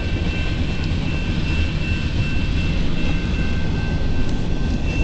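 A long CN freight train's cars, mostly tank cars, rolling past with a steady low rumble, over a faint, steady high-pitched whine.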